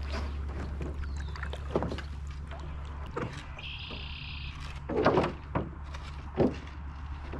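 Several knocks and thumps of a canoe and its paddles, the loudest cluster about five seconds in, over a steady low hum.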